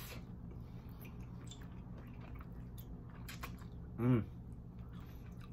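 Close-up mouth sounds of a person chewing chewy ramen noodles: soft, wet, smacking little clicks. About four seconds in there is a short hummed vocal sound.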